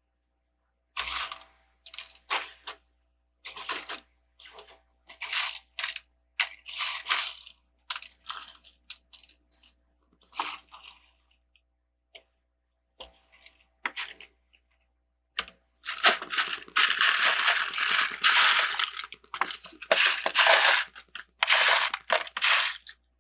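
Small plastic Lego pieces rattling and clattering as a hand rummages through a pile of sorted bricks, in short irregular bursts, then a longer stretch of steady sifting near the end.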